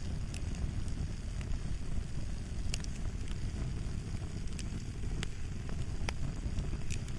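Wood fire crackling: sharp, scattered pops and snaps, about one a second, over a steady low rumble.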